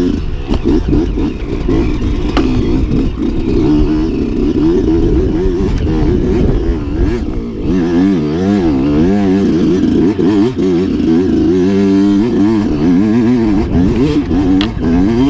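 Off-road dirt bike engine revving, its pitch rising and falling over and over as the throttle is worked, with a few sharp clicks.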